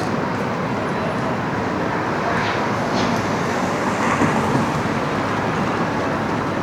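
Busy city street ambience: a steady wash of road traffic noise, with a couple of brief sharper sounds near the middle.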